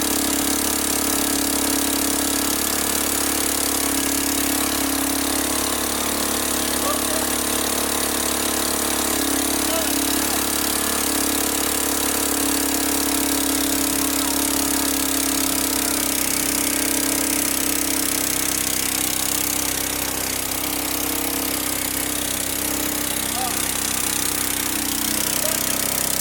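Small engine-driven generator running steadily with an even, unbroken drone.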